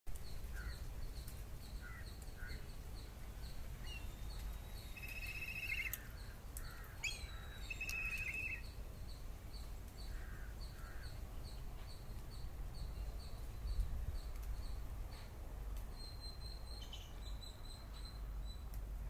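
Outdoor birds calling over a steady low rumble: a high, regular ticking call about two to three times a second, a few short trills, and lower caw-like calls.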